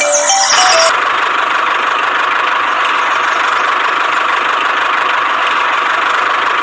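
A small motor running steadily with an even whirring hiss. It takes over as music fades about half a second in and cuts off abruptly at the end.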